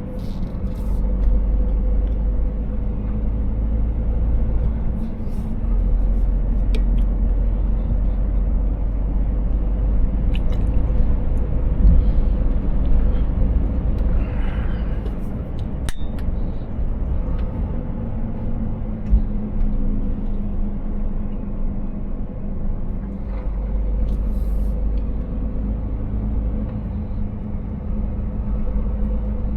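Scania S 500 truck on the move: a steady low engine and road rumble, with a few light clicks now and then.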